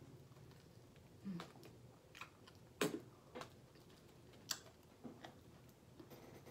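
A person chewing a bite of a sub sandwich with the mouth close to the microphone: scattered soft clicks and smacks, one a little louder about three seconds in.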